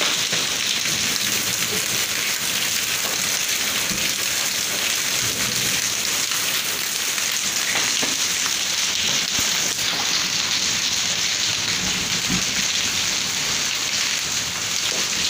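Heavy rain pouring onto a wet concrete courtyard: a steady, dense hiss of drops splashing on the pavement.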